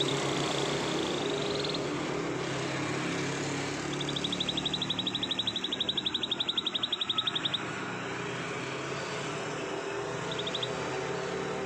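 Domestic canary singing fast, high, even trills (rolls): a short roll at the start, a long roll of about three and a half seconds from about four seconds in, and a brief burst near the end, over steady background noise.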